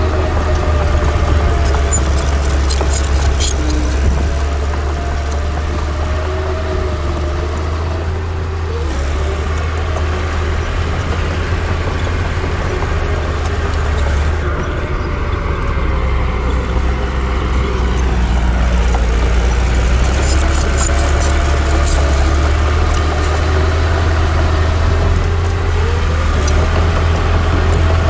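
Komatsu D60 bulldozer's diesel engine running under load, its pitch dipping and recovering several times as it works. There is light metallic clinking now and then.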